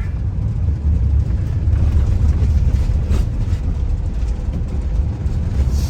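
A van's engine running with a steady low rumble.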